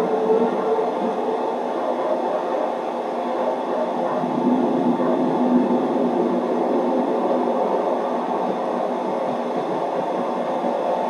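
A train running along the track with a steady rumble.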